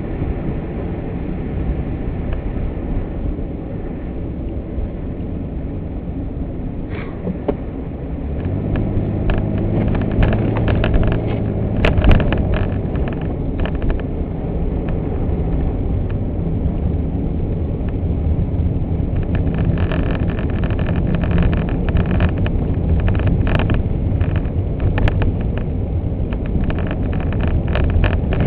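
Car driving through snow, heard from inside the cabin: a steady rumble of engine and road noise that grows louder about eight seconds in as the car speeds up. Scattered light ticks and crackles come in from then on, with a single knock about twelve seconds in.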